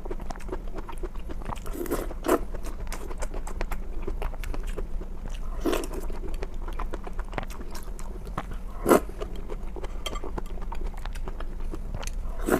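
Close-miked chewing and biting of food: a dense run of small wet mouth clicks, with louder crunchy bites about two, six and nine seconds in, the one near nine seconds the loudest. A steady low hum runs underneath.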